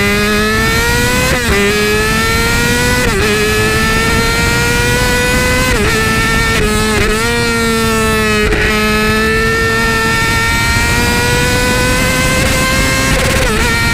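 2008 Yamaha R6 inline-four with an Akrapovic slip-on exhaust, heard from a tail-mounted microphone, running at high revs with the pitch slowly climbing. The pitch dips briefly about six times and then climbs again.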